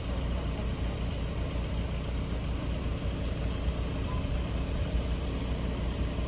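Engines idling with a steady low rumble.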